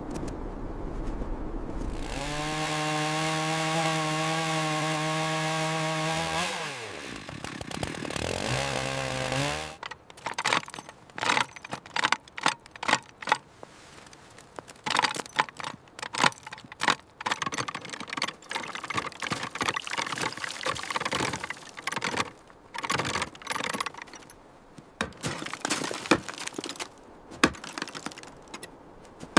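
A chainsaw runs at a steady high pitch for about four seconds, drops off, revs up again and cuts out. A long run of irregular sharp knocks and cracks follows.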